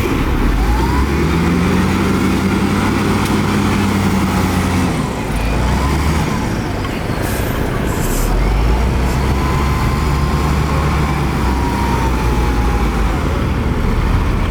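Heavy diesel earthmoving machinery working on a sand fill. The engine note holds steady, eases off about five seconds in and builds again from about eight seconds, with a faint whine drifting above it.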